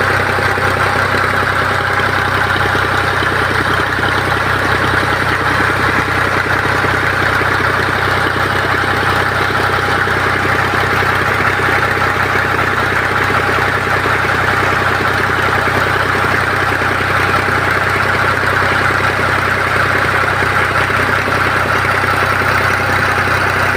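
Tractor's diesel engine running steadily at a constant speed for the whole stretch, without change.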